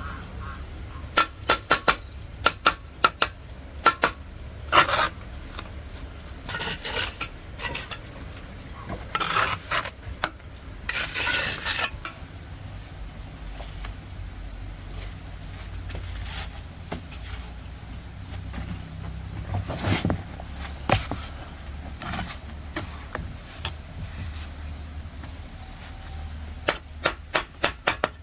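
Irregular sharp knocks and taps of hand work, some in quick runs and a few longer scraping noises, over a steady high insect buzz.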